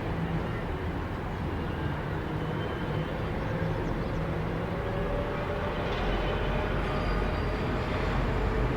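Steady mechanical rumble with a low engine hum over a noisy ambient background. The deep rumble grows slightly stronger toward the end.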